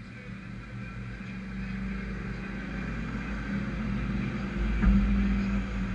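Race trucks' engines running at speed around the oval, growing steadily louder as they approach, with a jump in loudness about four and a half seconds in.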